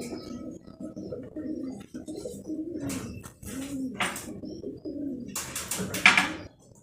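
Pigeons cooing, low rounded calls repeated throughout, with a brief loud clatter near the end.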